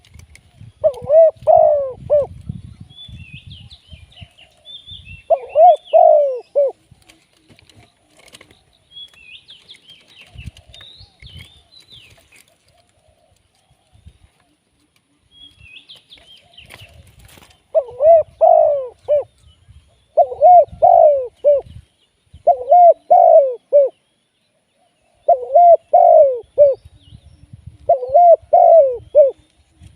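Spotted dove cooing in short phrases: two phrases early on, then after a pause of about ten seconds a phrase every two to three seconds. Faint chirps from small birds fall in the gaps.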